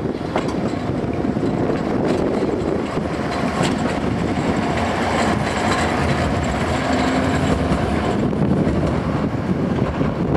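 A train running past at a station, wheels rumbling and clattering over the rails, with a thin high squeal of wheels or brakes for a few seconds midway.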